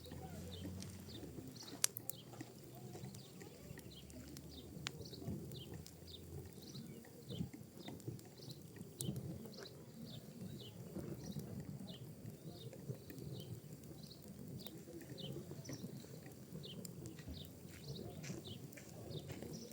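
Pinecone and wood fire burning in a fireplace: a steady low rustle of flames with scattered sharp crackles and pops, the loudest about two seconds in, and a string of faint high squeaks through it.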